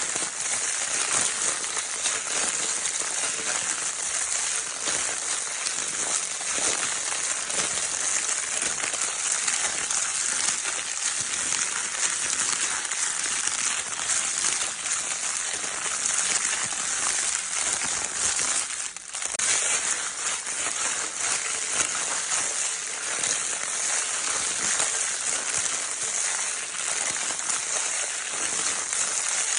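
Crinkle paper of a baby's crinkle toy being scrunched continuously: a dense, steady rustling crackle, with a momentary lull about nineteen seconds in.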